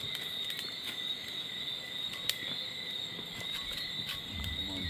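Crickets chirping in a steady, high-pitched night chorus, with a few scattered sharp clicks.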